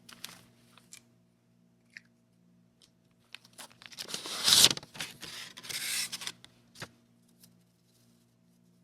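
Paper or plastic packaging being torn open: two rustling tears about four and five-and-a-half seconds in, with a few light clicks and taps around them.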